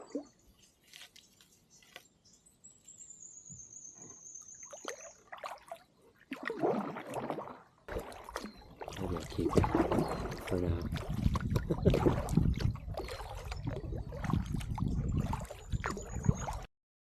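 Kayak paddling: irregular splashing and dripping of water from the paddle strokes, starting about six seconds in. Before that it is nearly quiet, with a thin high whistle held for about three seconds and falling slightly in pitch.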